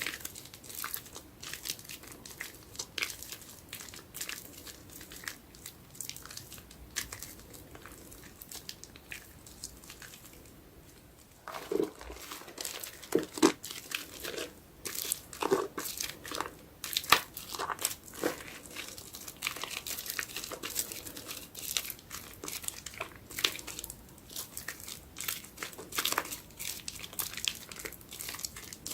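Soapy sponge being squeezed and worked in soap foam: a dense run of crackling, squishing sounds. About ten seconds in it briefly goes quieter, then comes back with a few heavier, lower squishes.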